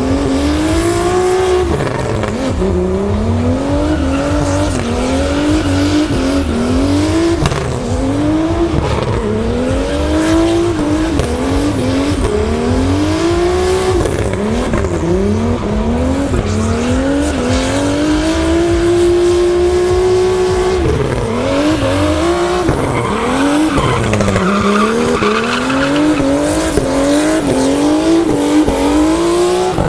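Turbocharged BMW E36 328i's M52 straight-six drifting, with tyres squealing. The engine revs up and down in quick repeated climbs and is held at steady high revs for a few seconds about two-thirds of the way through.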